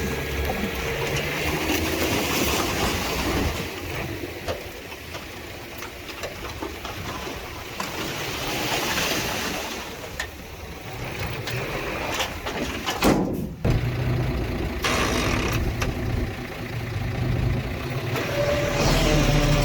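Heavy construction machinery's diesel engines running, the engine sound rising and falling in level.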